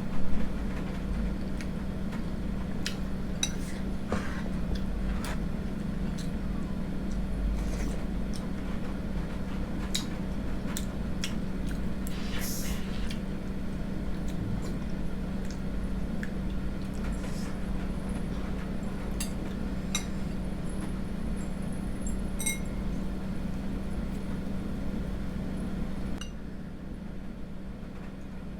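A spoon clinking against a bowl of rice porridge every second or two while eating, over a steady low hum that drops away near the end.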